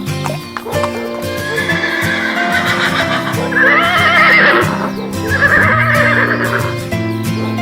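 A horse whinnying twice over background music, the first call longer and wavering, the second shorter.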